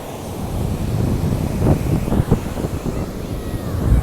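Wind buffeting the microphone in gusts, with sea waves washing in the background.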